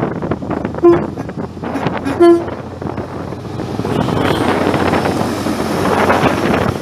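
A train horn sounds two short toots on a single note, the second a little longer than the first. A broad rushing noise then builds and carries on toward the end.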